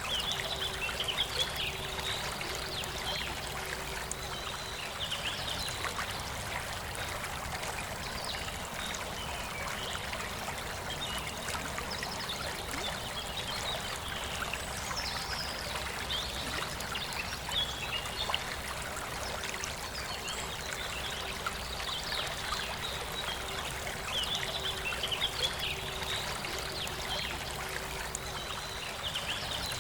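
Forest river flowing steadily, with birds singing short chirping phrases over the water.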